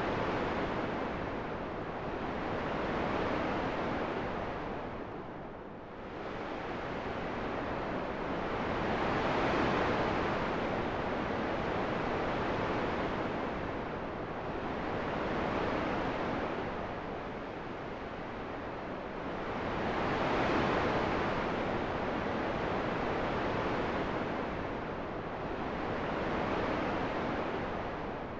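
Wind blowing in a steady rush that swells and eases every five or six seconds.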